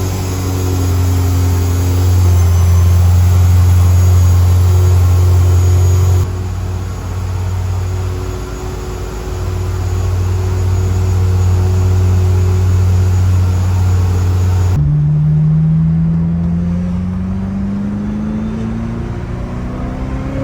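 Ferrari F355's V8 idling steadily, then about fifteen seconds in the revs climb smoothly as the car pulls away and accelerates.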